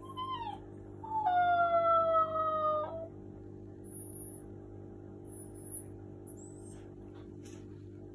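Alaskan Malamute puppy making its 'woo' sound: a short falling call, then one long call of about two seconds that slides slowly down in pitch.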